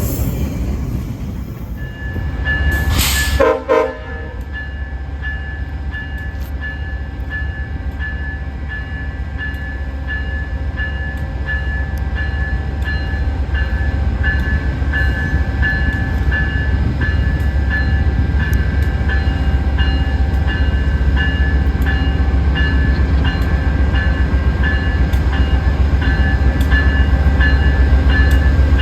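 Diesel locomotive sounding one short horn blast about three seconds in, then its bell ringing steadily over the low rumble of the engine, which grows louder as the train approaches.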